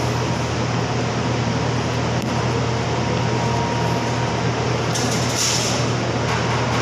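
Steady mechanical drone: an even, noisy hum with a strong low band, and a brief brighter hiss about five seconds in.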